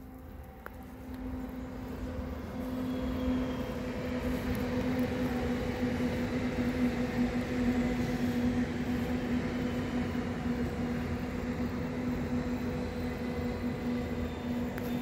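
Regional multiple-unit passenger train approaching and running past on the track. Its steady hum grows louder over the first few seconds and then holds at a constant level.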